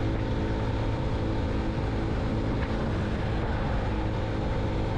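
Yamaha FZ-X motorcycle's single-cylinder engine running steadily while riding at an even speed, with a low rumble of road and wind underneath.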